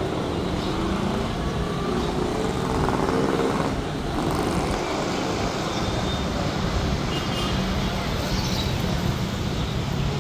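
Steady city-street traffic: a continuous wash of passing cars and motorbikes, with engine hum rising and falling as vehicles go by.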